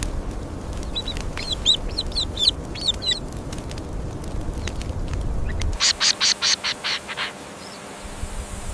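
Bird calls: a few short chirps in the first seconds, then a quick series of about eight harsh calls over a second and a half, over a low rumble that stops just before the series.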